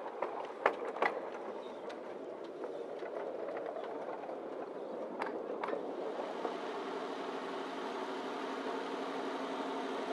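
Narrow-gauge colliery train running: a rumble with sharp metallic clanks, two of them loud in the first second and two more about five seconds in. From about six seconds in it settles into a steadier humming drone.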